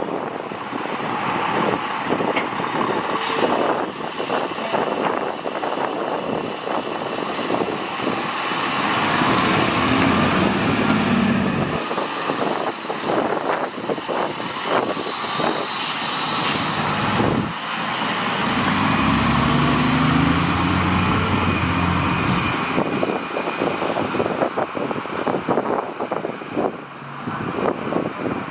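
Fire truck driving past on a call, its engine running under load over steady road noise, heavier around a third of the way in and again about two-thirds through.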